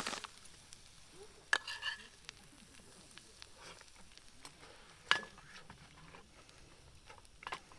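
Utensils clinking and tapping on metal cookware, four sharp hits, two of them ringing briefly, over faint sizzling of food cooking.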